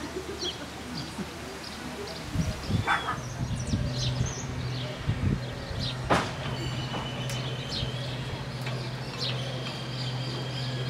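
Birds chirping repeatedly in short high calls over outdoor ambience. A low steady hum comes in about three seconds in, and there is a sharp click about six seconds in.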